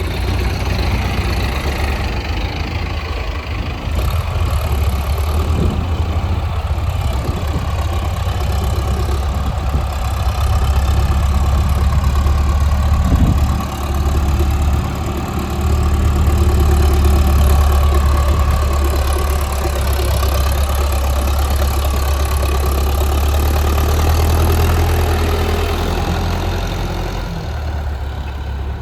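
Diesel engine of heavy machinery running steadily with a deep hum, its loudness swelling and easing as it works, with a brief dip about 13 seconds in.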